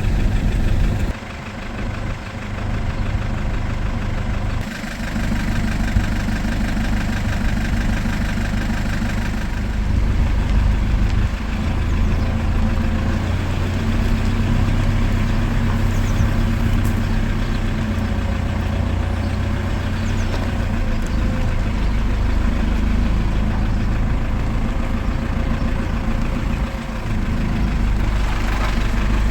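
A motor vehicle's engine running steadily with a low drone, briefly dropping in level about a second in.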